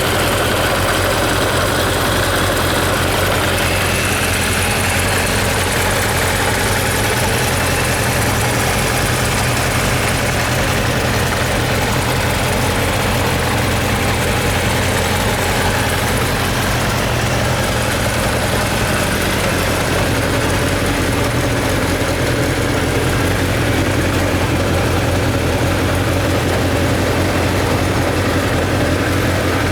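Kawasaki Zephyr 750 air-cooled inline-four motorcycle engine idling steadily, with no revving.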